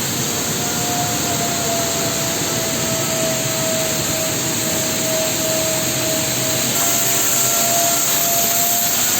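Steady industrial machinery noise with a faint, steady whine running through it.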